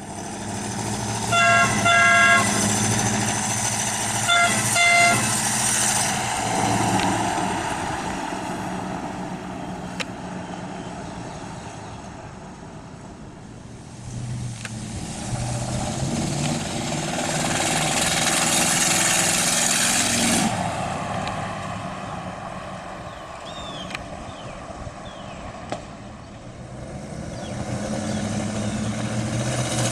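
Pickup truck's horn honked in two quick double beeps, about a second in and again about four seconds in, over the running of a 350 small-block Chevy V8 and tyre noise. The engine and road noise then swell in a long pull and drop off sharply about twenty seconds in, building again near the end.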